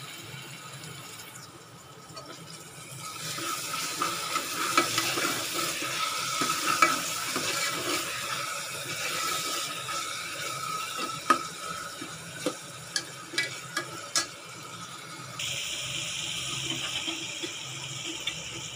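Chopped tomatoes sizzling in hot oil with the onion masala as a steel ladle stirs them. The ladle clinks sharply against the metal pot several times.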